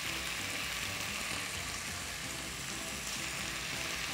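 Chicken pieces sizzling steadily as they brown in hot oil in a pot.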